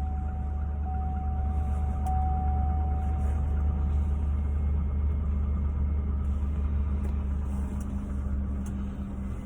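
Old truck's engine idling steadily just after starting. A thin, steady high tone sounds alongside it and fades out about three seconds in.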